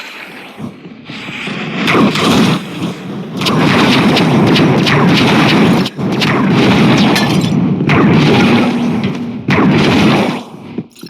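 Loud, deep booming rumble with crackle, in long stretches broken by sudden cut-offs, the sharpest about six seconds in and another near the end.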